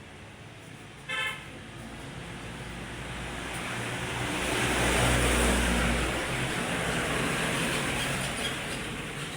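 A short horn toot about a second in, then a road vehicle passing by, its engine and tyre noise swelling to a peak midway and fading away.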